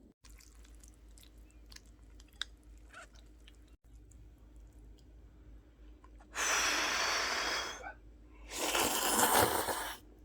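Eating Jjapaghetti noodles: faint wet clicks and smacks of chewing, then two loud rushing noises, each about a second and a half long, near the end.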